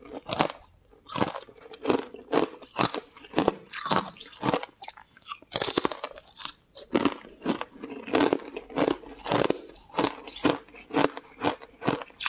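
Close-miked crunching bites and chewing of a crumbly green powder-coated block of food, a quick run of sharp crunches with brief lulls between mouthfuls.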